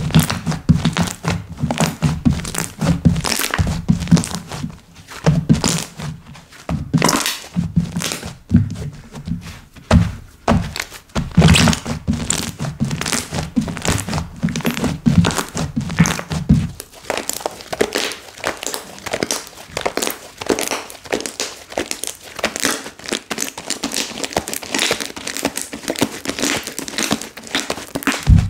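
Slime being kneaded, pressed and poked by hand: a fast, irregular run of sticky clicks and pops. A lower thudding layer drops out about two-thirds of the way through, leaving only the clicks.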